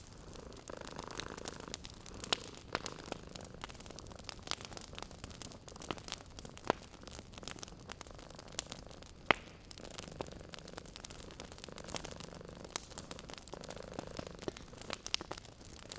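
Wood fire crackling in a fireplace: irregular sharp pops and snaps over a soft hiss, the loudest pop about nine seconds in. A cat purrs softly underneath.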